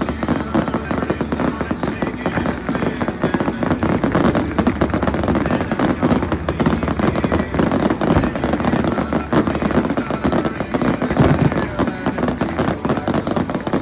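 Fireworks going off in a dense, continuous barrage of rapid reports and crackling, with a few louder clusters of bangs about eight and eleven seconds in.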